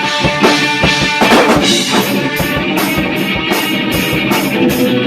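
Rock band rehearsing a song, with drum kit, guitar and bass playing together. From about two seconds in, a steady cymbal beat of about two to three strokes a second stands out.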